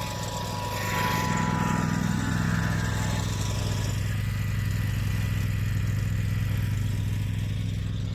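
Lawn tractor engine running steadily while towing a pull-behind dethatcher, getting a little louder about a second in.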